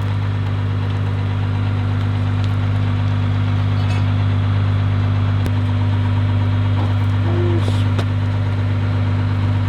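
Pickup truck engine running with a steady, unchanging low hum.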